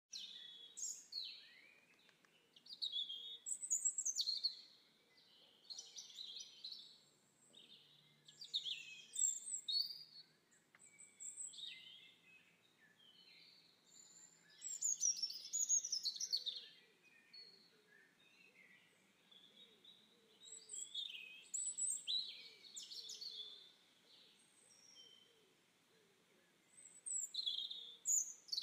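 Wild birds chirping and singing in repeated bursts of short, high calls, several overlapping, with brief lulls between the bursts.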